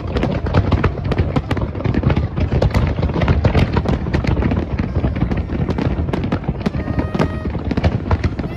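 A fireworks display going off in rapid, continuous volleys: dense crackling and popping over a deep rolling rumble of bursting shells.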